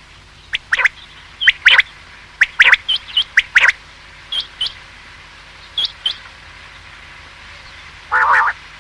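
Quail calling: a run of short, sharp notes, mostly in quick pairs, for about six seconds, then a pause and a single harsher, raspy call near the end.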